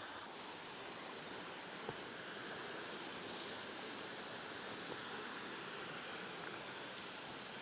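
Steady rushing of a woodland river flowing over rocks, with a faint tick or two.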